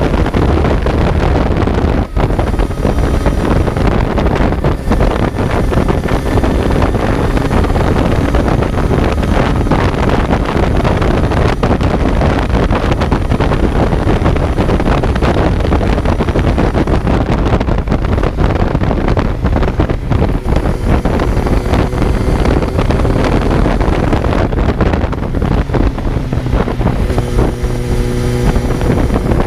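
Kawasaki Z900's inline-four engine running on the move, heavily mixed with wind buffeting on the microphone. The sound dips briefly about two seconds in, and near the end the engine note settles into a clearer steady tone.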